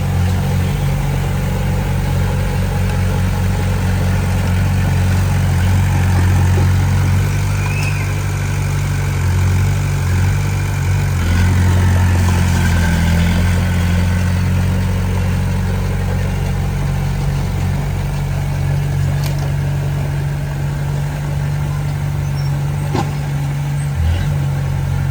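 Heavy diesel engine of earthmoving machinery running steadily, its pitch shifting and working a little harder for a few seconds near the middle, with a few light knocks near the end.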